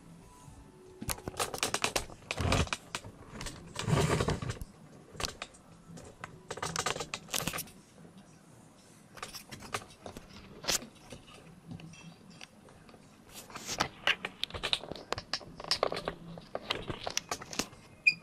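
Lightning detector crackling and clicking in irregular bursts, each burst a rapid string of clicks, as it picks up discharges from a distant thunderstorm.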